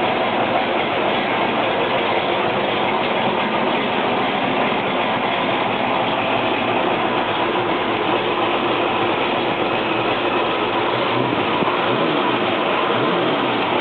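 1967 Shelby's V8 engine running at a steady idle, loud and constant, with engine speed wavering up and down briefly near the end.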